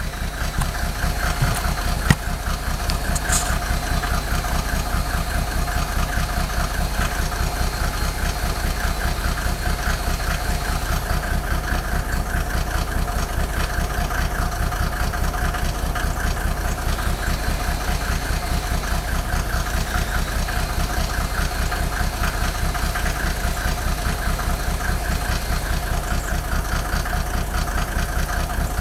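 Mercedes OM603 straight-six diesel idling with a steady, evenly pulsing run; it idles rough when cold, which the owner traces to cylinders 2 and 6 smoking. A single sharp click sounds about two seconds in.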